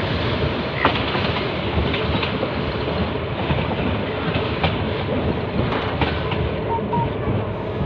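Passenger train running along the track, heard from inside the carriage: a steady rumble with the wheels clattering and the carriage rattling, broken by scattered sharp knocks.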